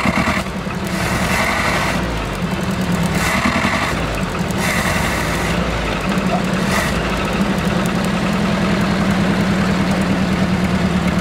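Old Jeep four-cylinder engine idling unevenly, missing on one or two cylinders because of loose spark plug leads. As the leads are pushed home on the distributor it settles, from about seven seconds in, into a steadier, even idle on all four cylinders.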